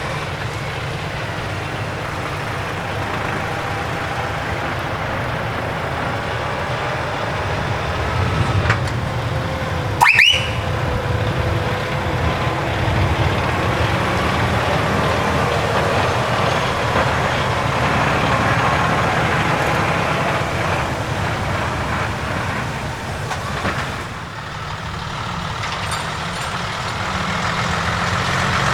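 Heavy trucks' diesel engines running as they move past, with a brief sharp sound rising in pitch about ten seconds in.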